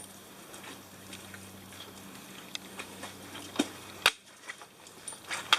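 Footsteps and scattered knocks of hikers stepping down a slick, wet trail of rocks and roots: a few separate sharp clicks, the loudest about four seconds in, over a low steady background.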